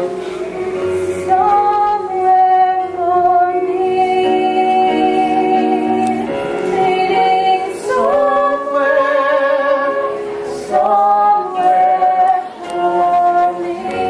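A woman singing long held notes with vibrato over musical accompaniment: the closing phrases of a musical-theatre duet.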